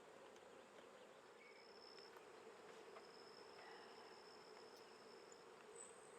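Faint, steady hum of honeybees buzzing around an open hive, with a thin high-pitched whine running through the middle of the stretch.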